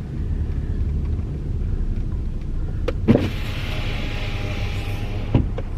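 Car cabin with a steady low engine and road rumble; about three seconds in there is a click, then an electric power window runs down for about two seconds and stops with a thump, letting in a hiss of outside air.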